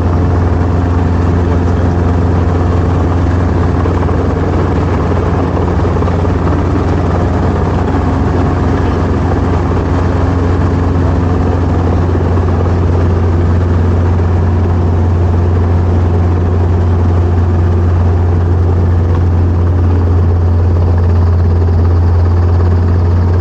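Helicopter engine and rotor running steadily, a constant low hum with no change in pitch or level.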